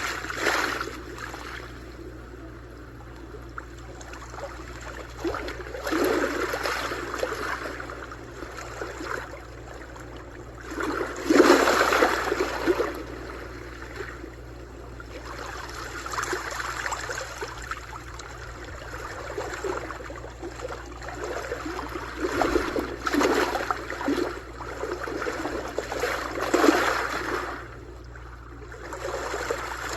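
Sea waves washing onto a shore: surges of splashing, hissing water that swell and ebb every few seconds, the loudest about twelve seconds in.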